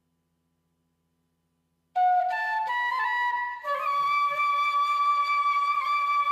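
Silence, then about two seconds in, flute background music begins: a few short notes climbing in steps, then one long held note with a slight vibrato.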